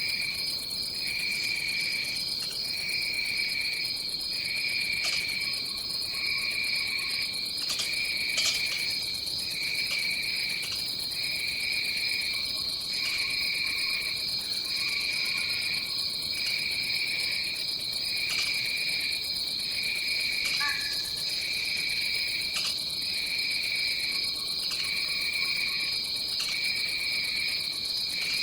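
Rainforest insect chorus: a steady, high-pitched drone, with a lower chorus underneath that pulses in a regular rhythm about every second and a half. A few faint short calls and clicks come through now and then.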